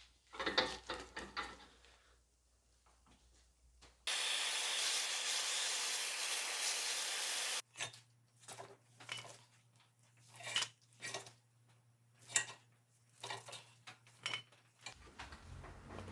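Repeated scraping strokes of a hand tool working the axe, about two a second, in short clips. A few seconds of steady hiss sit between them.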